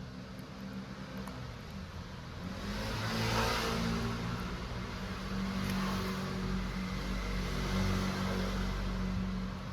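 A motor vehicle's engine with a steady low hum, swelling louder about two and a half seconds in and staying up until near the end.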